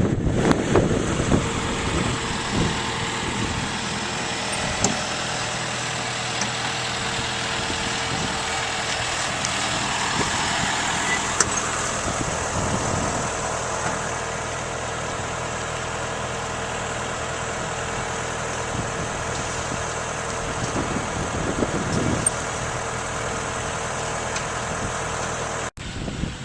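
Farm harvest machinery running steadily: a constant engine drone with a steady whine on top.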